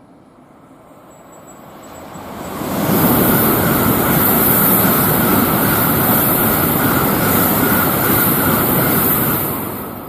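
Tokaido Shinkansen bullet train passing through the station at high speed without stopping: a loud rushing noise that builds over about two seconds, holds for about six seconds, then fades near the end.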